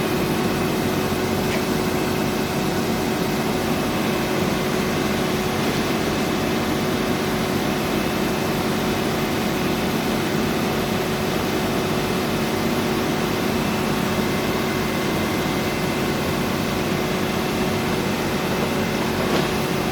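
Heavy diesel engine of an earthmoving machine running steadily at an even speed, with a few constant tones over the engine noise.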